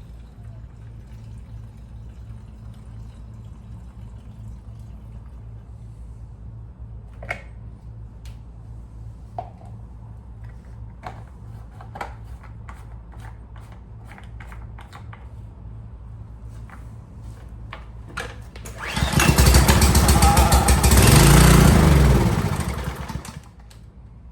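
Ryobi pressure washer's small gasoline engine firing up after a long stretch of low hum and scattered clicks and knocks. It starts about 19 seconds in, runs for about four seconds and then stops. It is running on a newly replaced carburetor, which has cured the no-start.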